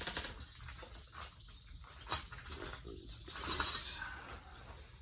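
Metal tool parts clinking and rattling as a gear puller is handled and set on the old engine's shaft, with a louder rasping scrape about three and a half seconds in.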